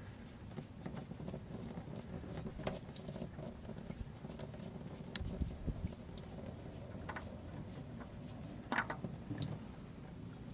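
Small scattered clicks and taps of hands handling the just-removed oil filter and tools under the car, with a sharper knock about five seconds in and another near nine seconds.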